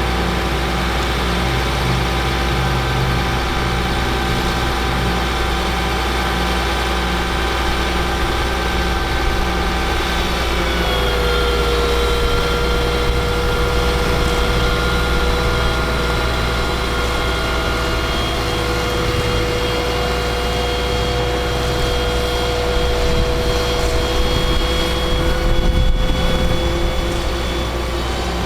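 Caterpillar C7 diesel engine of a Ford F750 bucket truck running steadily, with a whining tone over it that steps down to a lower pitch about ten seconds in and holds there.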